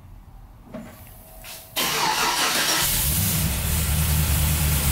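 Cadillac CTS-V's supercharged V8 remote-started from its key fob: after a quiet moment it cranks and fires suddenly about two seconds in, flares loudly, then settles into a steady idle.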